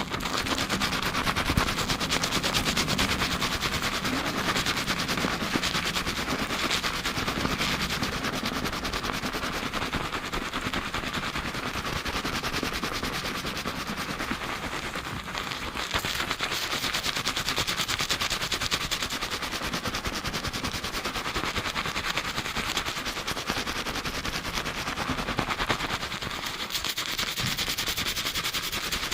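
Hands rapidly scrubbing a lathered scalp during a shampoo: a dense, fast, unbroken run of wet scrubbing strokes through foam and hair.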